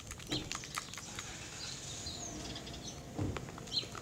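Slime being stirred in a pot: irregular sticky clicks and squelches, with a few bird chirps in the background.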